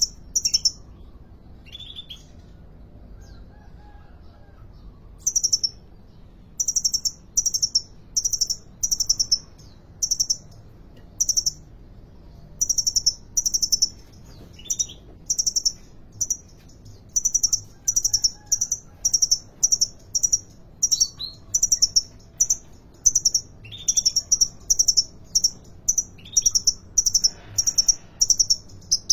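Brown-throated sunbird (kolibri ninja) singing nonstop: short, high, sharp notes repeated about once a second in long runs, with a few lower chirps in between.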